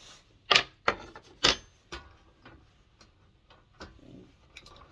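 Sharp clicks and knocks of hand tools and heater parts being handled as a diesel heater is taken apart: three loud ones in the first second and a half, then lighter ticks.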